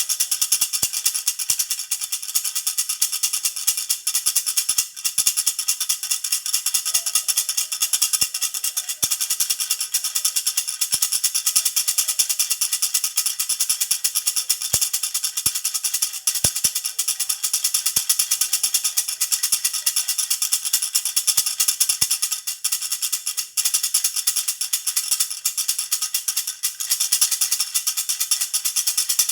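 Baby rattle (jhunjhuna) shaken steadily, giving a fast, continuous jingling.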